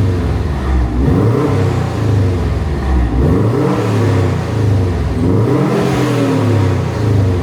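Subaru WRX STI's turbocharged flat-four engine revved several times on the exhaust, with the back boxes still fitted, the pitch rising and falling with each blip of the throttle.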